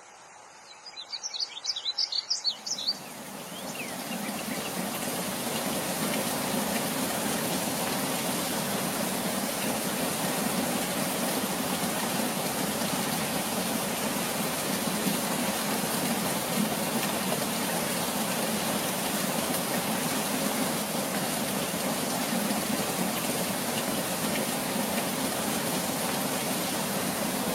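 A bird chirps rapidly for a couple of seconds, then the steady rush of heavy monsoon rain fades in and holds.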